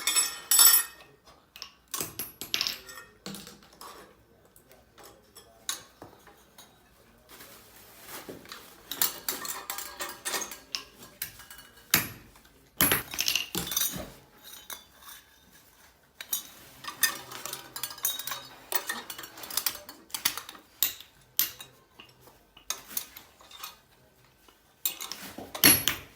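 Irregular metallic clinks and clanks: hard metal pieces knocking and clattering against one another, with short quiet gaps between bursts.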